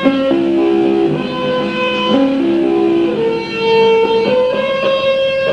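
Electric guitar playing a slow melodic phrase of held single notes over sustained chord tones, the notes changing every half second to a second.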